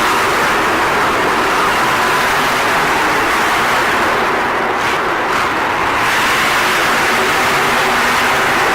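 Monster truck engines running loudly in a stadium arena, a steady, unbroken roar, slightly easing in the treble about halfway through.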